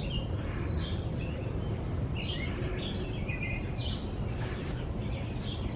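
Songbirds chirping, short calls coming every half second or so, over a steady low rumble of outdoor background noise.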